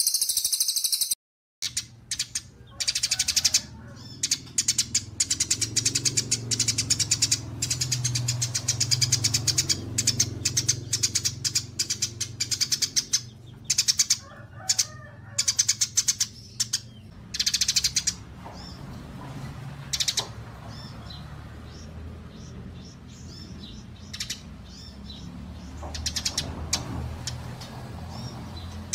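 Recorded songbird song mixed for bird-mastering: rapid, high-pitched chattering and chirping, dense during the first half and sparser in the second, over a steady low hum.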